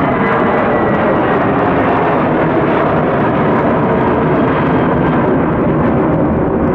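Airbus A320-200 jet airliner engines at takeoff power on departure, a loud steady jet noise. A faint high whine fades out about a second in.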